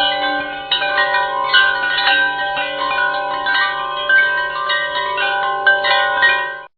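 Tinkling chime music: many overlapping bell-like notes ringing on, with new notes struck every fraction of a second. It stops abruptly near the end.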